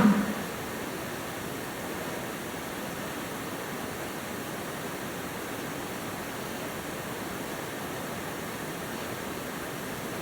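Engine oil pouring from the crankcase drain of a 1951 Allis Chalmers WD into a drain pan: a steady stream of splashing noise. A brief clatter right at the start.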